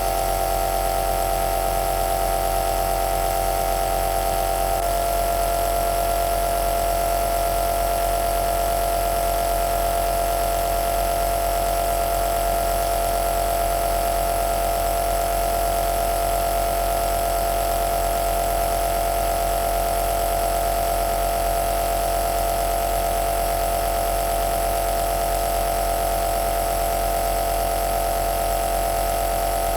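Compressor nebulizer running steadily: a continuous motor-and-pump hum with a hiss of air. About five seconds in, its tones shift slightly in pitch, then hold steady again.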